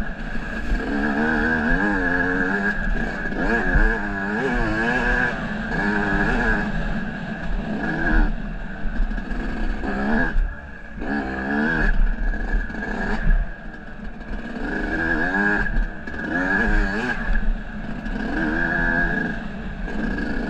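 Off-road motorcycle engine revving up and down over and over, pitch rising and falling about once a second, easing off briefly about halfway through; the engine is running again after having seized.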